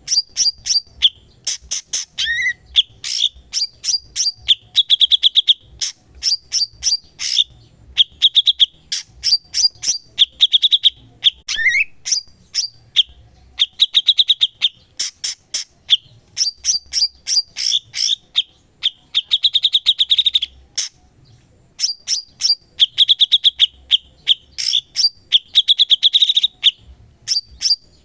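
Cucak cungkok songbird singing energetically in repeated phrases of rapid, high chattering notes, each phrase about a second or two long with short breaks between, and an occasional slurred whistle.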